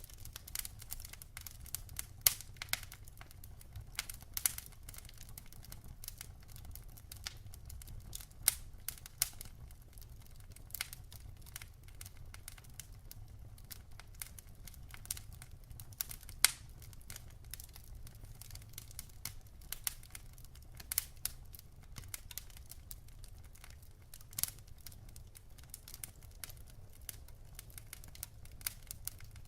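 Wood fire crackling: irregular sharp pops and snaps from burning logs, a few louder ones every second or two, over a steady low rumble of the flames.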